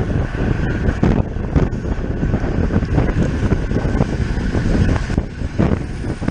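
Wind buffeting the microphone of a camera carried on a bicycle at race speed, a steady rumbling rush broken by scattered short clicks and knocks.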